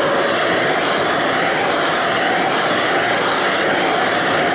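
A heat tool running with a steady, loud rushing noise and a faint steady whine. It is being used to heat the seized fan hub of a forge blower so that it will come free of its shaft.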